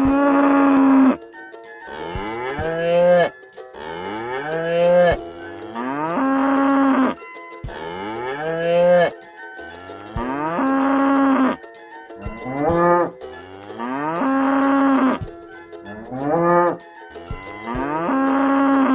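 Cow mooing again and again: about ten drawn-out moos that rise in pitch, roughly every two seconds.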